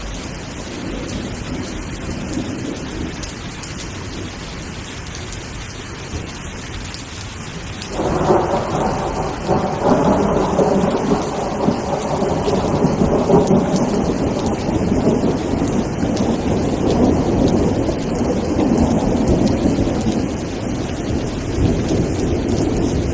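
Rain falling steadily through a thunderstorm. About a third of the way in, a loud rumble of thunder starts suddenly and keeps rolling over the rain.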